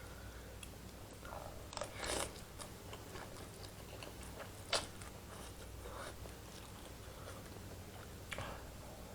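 A person eating soupy curry instant noodles: quiet chewing, with a few short, sharp mouth noises about two, five and eight seconds in.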